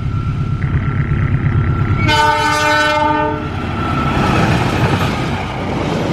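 CC 206 diesel-electric locomotive approaching at speed with a steady engine rumble. About two seconds in it sounds its horn once, a chord held for about a second and a half, and then the rush and clatter of the passenger coaches running past take over.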